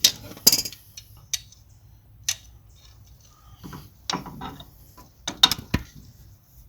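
Metal hand tools clicking and clacking in irregular sharp clicks. The loudest come in a short cluster about five and a half seconds in.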